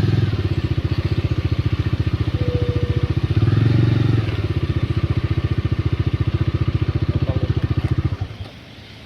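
Motorcycle engine running at low revs with a steady pulsing beat, revving up briefly about three and a half seconds in, then settling back before it drops away a little after eight seconds.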